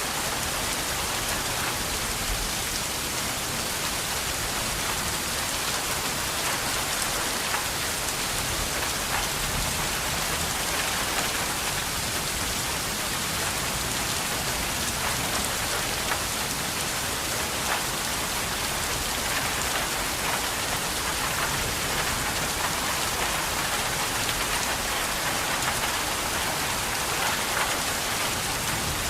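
Steady rain falling and pattering on a surface, an even hiss with many small drop ticks throughout.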